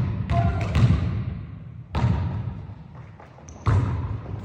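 A basketball bouncing and thudding on a gym floor: a few irregular heavy impacts, each ringing on in the hall.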